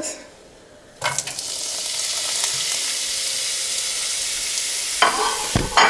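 Chopped red pepper and red onion dropped into hot oil in a frying pan, sizzling steadily from about a second in. A few knocks near the end.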